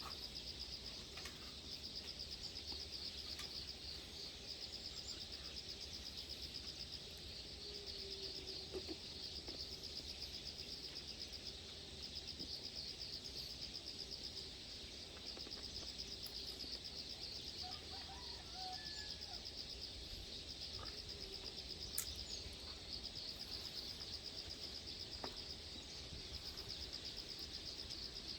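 Insects trilling steadily in a fast, continuous high-pitched pulse, with a few faint bird calls over a low outdoor rumble.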